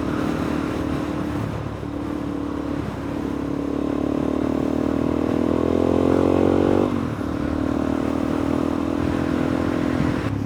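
Suzuki DR-Z400E single-cylinder four-stroke engine running on the move. Its revs climb steadily for a few seconds from about three seconds in, drop sharply around seven seconds, and then hold steady.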